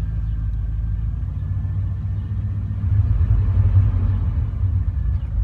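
1989 Chevrolet Silverado's 350 small-block V8 running just off idle under a light touch of throttle, getting louder about three seconds in. At this barely-open throttle the engine stumbles and shakes the truck as if it wants to die, a hesitation the owner takes for a misfire and suspects the EGR valve of causing.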